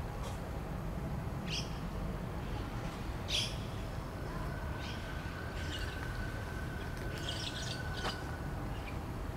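Small birds chirping in short, scattered calls every second or two over a steady low outdoor rumble.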